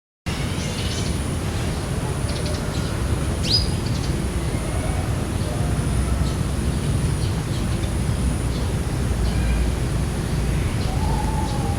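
Outdoor ambience of a steady low rumble with a thin, steady high tone, and birds chirping now and then: a sharp rising chirp about three and a half seconds in and a longer call near the end.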